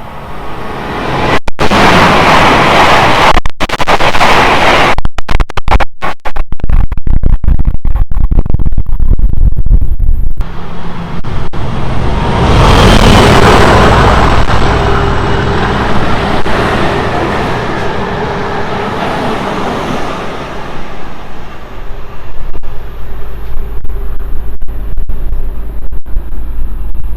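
GWR Intercity Express Train passing through at speed: a loud rush of wheel and air noise. For the first ten seconds the recording overloads and breaks up in rapid dropouts. The noise surges again about twelve seconds in, then slowly dies away.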